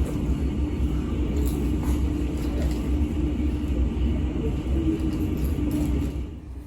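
A steady, loud low rumble with a constant hum over it, of the kind heard inside a moving vehicle. It drops away suddenly near the end.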